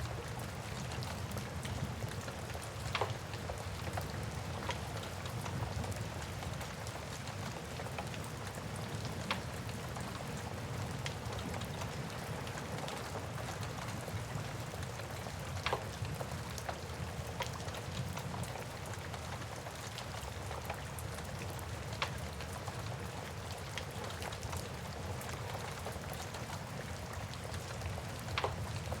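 Steady rain hissing, with a low rumble underneath and a few sharp, irregular pops and crackles from a wood fire in a fireplace.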